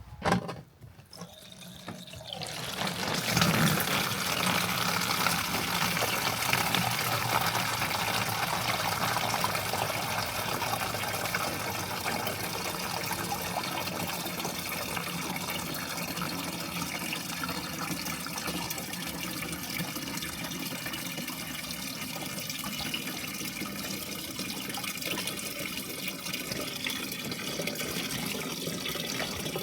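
Water running steadily, as from a tap, starting about two seconds in after a short knock.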